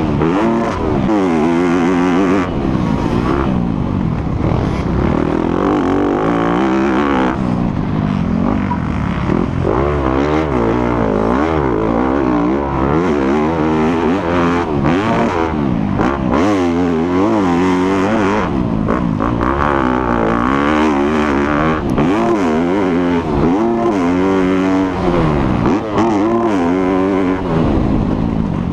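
Dirt bike engine being ridden hard, its pitch rising and falling over and over as the throttle is opened and closed through the gears.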